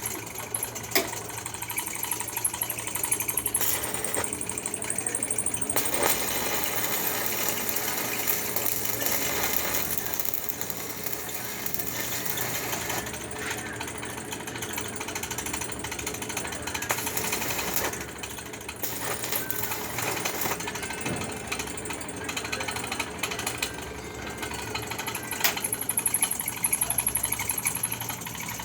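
Electric arc welding on a foundation bolt: the arc crackles and buzzes steadily, louder in a couple of stretches.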